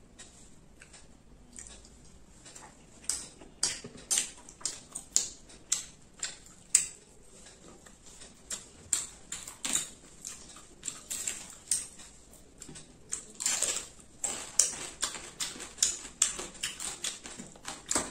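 Close-miked eating: chewing with wet lip-smacking clicks, several a second, on chapati and fried fish eaten by hand. It is quieter for the first three seconds, then dense and steady.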